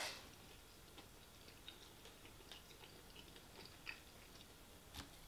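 Faint chewing with the mouth closed: scattered soft mouth clicks, with a slightly sharper click near the end.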